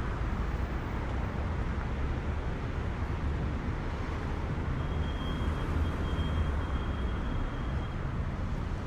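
City street traffic: a steady low rumble of passing vehicles. A faint thin high tone sounds over it between about five and eight seconds in.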